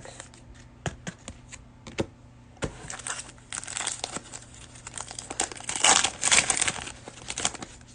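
A few light clicks of trading cards being handled, then the crinkling and tearing of a clear plastic cello-pack wrapper being ripped open, loudest a little past the middle.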